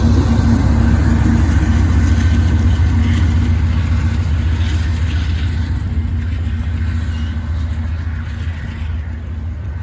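BC Rail GE C44-9W (Dash 9) diesel locomotive, running as the train's rear distributed-power unit, moving away, its engine hum fading steadily.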